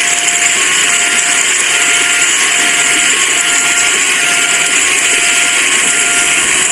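A railway level-crossing warning alarm sounding a repeating alternating two-tone signal, the crossing's warning that a train is approaching, over the loud, steady hiss of heavy rain.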